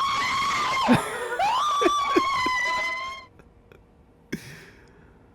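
A person screaming in fright: two long, high-pitched screams, the second breaking off a little after three seconds in.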